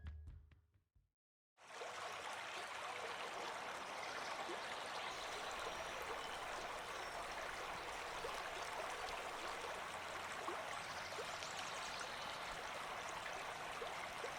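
River water flowing: a steady, even rush of running water that starts about a second and a half in.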